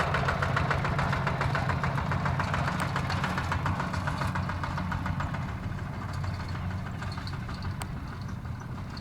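Kubota ZT155 single-cylinder diesel engine running with a fast, even knocking chug, slowly fading.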